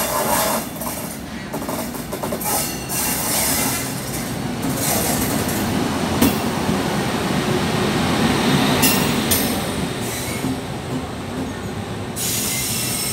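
Express train hauled by an Indian Railways electric locomotive passing through a station at speed: a steady loud rumble of wheels on rail, with repeated wheel clatter and brief high-pitched wheel squeals as the locomotive and then the coaches go by.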